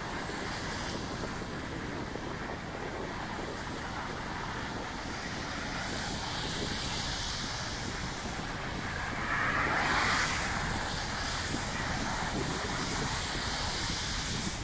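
Steady hiss of rain on a wet city street, with traffic noise; a vehicle swishes past on the wet road about ten seconds in, the loudest moment.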